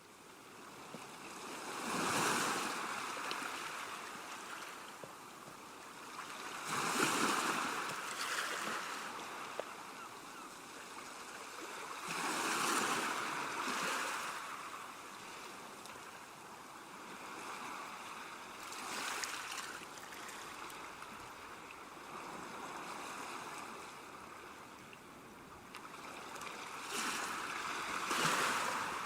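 Sea waves breaking on a rocky shore: each wave comes in as a swelling rush of surf that fades back into a steady hiss, every few seconds, with a calmer spell past the middle before a louder wave near the end.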